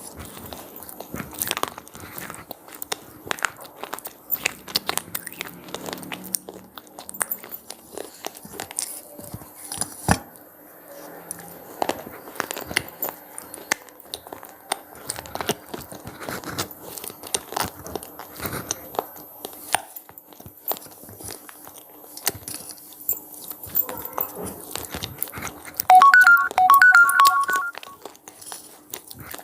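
Crunchy cheese-pizza flavoured snacks being bitten and chewed close to the microphone: a dense run of sharp, irregular crunches. Near the end comes a short, louder sound holding a few steady pitches.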